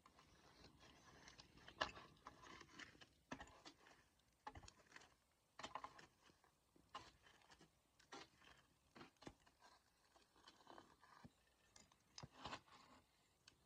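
Wood fire crackling faintly, with scattered snaps and pops at irregular intervals, the sharpest about two seconds in.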